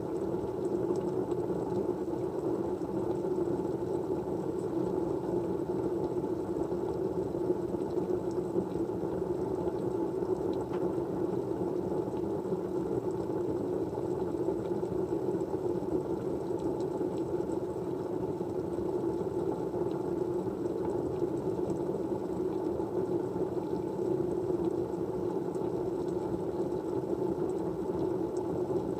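Steady white noise: an even, muffled rushing sound that never changes, with a few faint ticks now and then.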